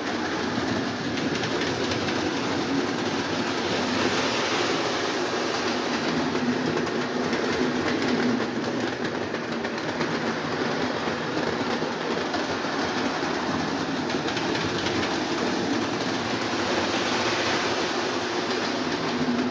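Lionel O27 model train running steadily on its track: the Chessie System diesel locomotive's electric motor hums while the wheels of the locomotive and its cars run over the rails, swelling and fading slightly as the train moves around the layout.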